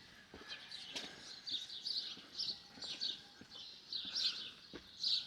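Small birds chirping and singing in quick repeated high notes, with a few footsteps on stone.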